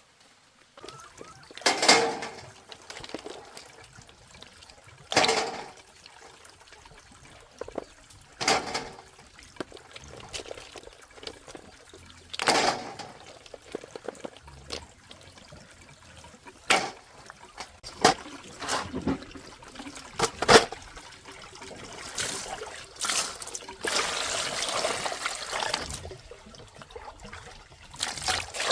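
Water splashing and pouring in separate bursts every few seconds, coming closer together later, with a longer steady pour about two-thirds of the way through.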